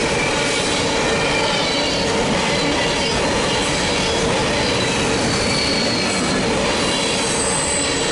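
Covered hopper cars of a BNSF grain train rolling past close by: a steady rumble of steel wheels on rail, with thin high-pitched wheel squeals now and then.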